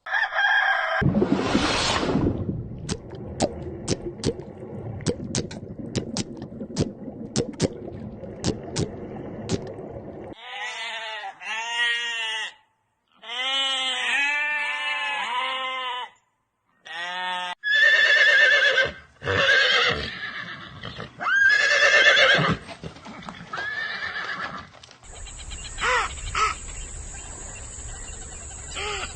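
A run of separate animal-sound clips, chiefly horses neighing and whinnying in shaky, wavering calls. It opens with several seconds of clicks over noise, and near the end there is a steady high tone with more clicks.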